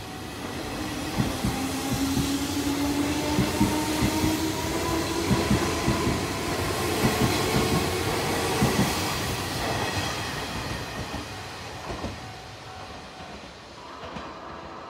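Hanshin 8000-series electric train passing close by, its wheels clacking rhythmically over the rail joints under a motor whine that rises in pitch as it picks up speed. It fades in the last few seconds as the train draws away.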